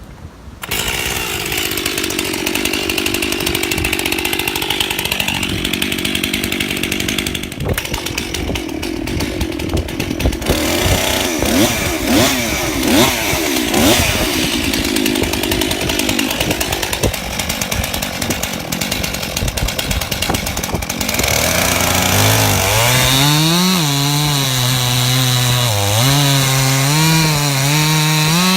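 Chainsaw starting about a second in and running, cutting into a large ash trunk. Its engine pitch rises and dips over and over, most strongly in the last several seconds.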